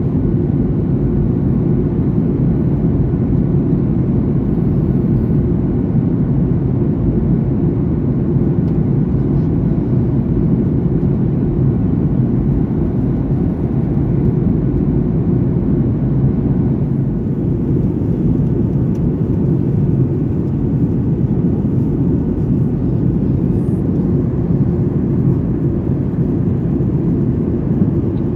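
Cabin noise inside a Boeing 737-900ER, heard from a window seat in economy: the steady low rumble of its CFM56-7B turbofans and the airflow, unchanging throughout.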